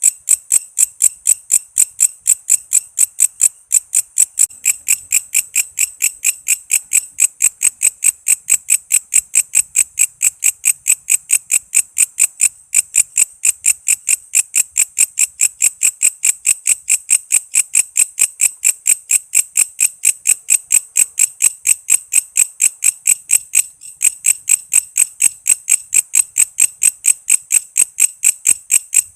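Walang kece katydid calling: a steady, high-pitched train of short chirps, about three a second. The train breaks off briefly twice.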